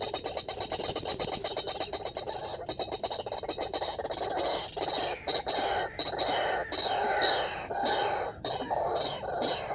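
White-breasted waterhen calls: a fast run of croaking notes that turns, about halfway, into repeated 'ruak' calls about two a second. A steady high insect buzz sounds behind.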